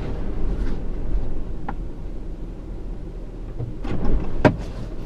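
Gusting blizzard wind buffeting the microphone in a steady low rumble, with a couple of sharp knocks about four seconds in.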